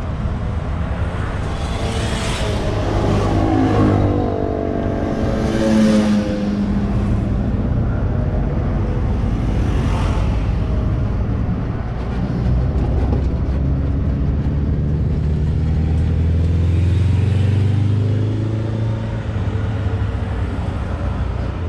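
Motor vehicle engines running: a steady low engine rumble, with an engine revving up and down a few seconds in and again near the end.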